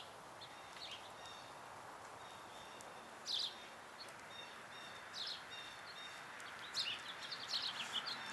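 Birds chirping in the background: short, high, downward-sweeping chirps, one about three seconds in, another about five seconds in, and a cluster near the end, over a low steady hiss.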